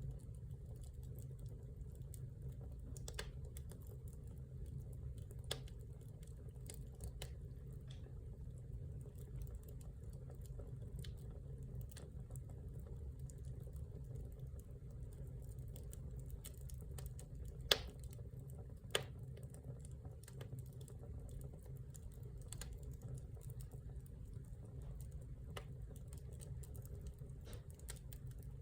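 Wood fire in a fireplace crackling, with irregular sharp clicks and two louder pops a little past the middle, over a steady low rumble.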